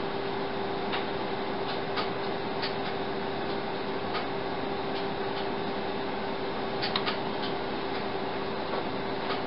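Steady machine hum with one constant low tone running through it, and scattered soft ticks, a few of them close together about seven seconds in.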